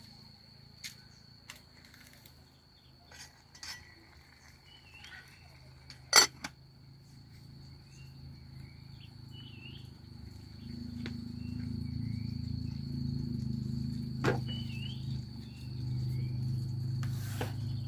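Steady high-pitched insect trill, with scattered clinks of metal cookware and utensils, the sharpest about six seconds in. A low rumble builds from about ten seconds in.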